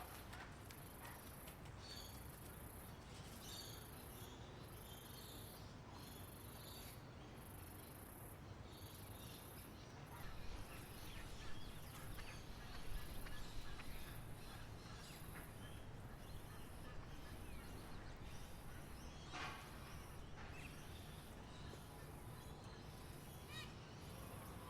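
Faint outdoor ambience: insects chirping in a very high-pitched, regular pulse about once a second, fading out in the second half, with scattered short bird chirps and a low background rumble.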